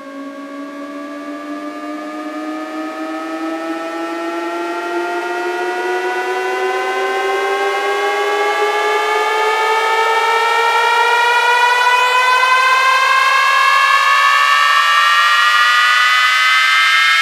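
Electronic synth riser: a layered tone sliding slowly and steadily upward in pitch while growing louder, like a slow siren. It is the build-up at the start of a DJ sound-check track.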